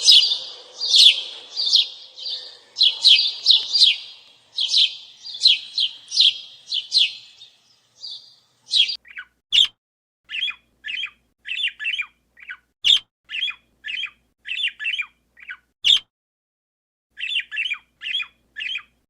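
Small birds chirping: a rapid, dense run of bright chirps for about the first eight seconds, then, after a short break, separate quick chirps that sweep downward, about two a second, pausing briefly near the end.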